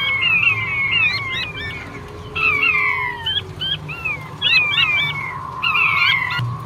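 Male king quail (puyuh batu) calling: phrases of quick, high whistled notes, each dropping in pitch, crowding over one another, with short lulls about two seconds in and near the end. A steady low hum and a faint steady tone run underneath.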